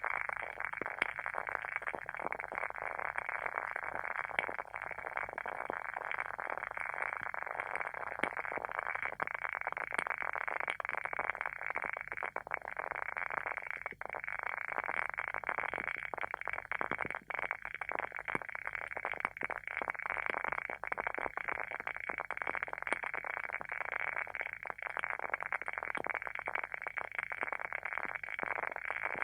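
WoodWick candle's wooden wick burning with a dense, steady crackle, scattered with small sharp pops.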